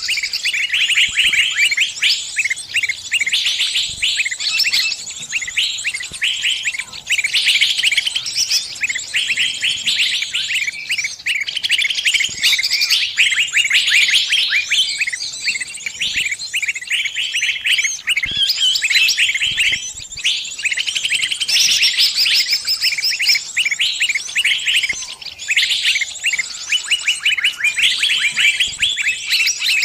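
Distress calls of a trapped small bird: rapid, high chirps in dense runs with only brief pauses.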